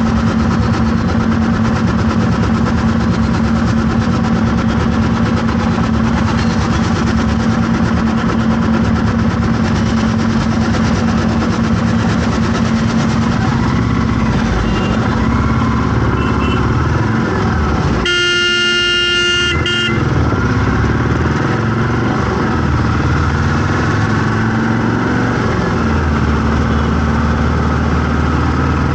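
Road traffic in a jam: vehicle engines running steadily, with one long vehicle horn blast, under two seconds, about two-thirds of the way through.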